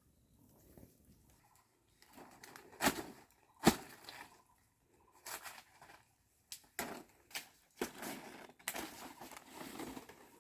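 Irregular knocks and cracks: two loud sharp ones about three seconds in, then a string of lighter knocks from about five seconds on.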